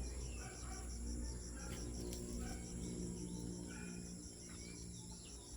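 Insects, likely crickets, trilling steadily in high tones, one of them pulsing rapidly, with short bird chirps scattered throughout. A low steady hum runs underneath.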